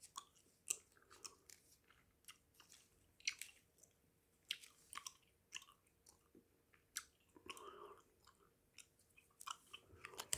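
Close-miked chewing of a piece of Hubba Bubba bubble gum: irregular wet, sticky clicks and smacks from the mouth, with pauses between them.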